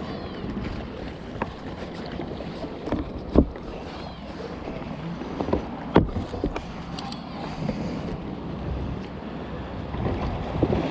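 Water splashing and sloshing around a kayak as it is paddled on a river, over a steady rush of moving water, with a few sharp knocks or splashes, the loudest about three and a half and six seconds in.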